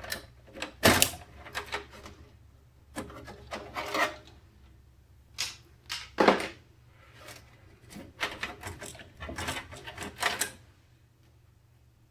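Hands handling PC components and their packaging: an irregular run of clicks, scrapes and rustles, with the sharpest knocks about a second in and around six seconds, dying away about a second before the end.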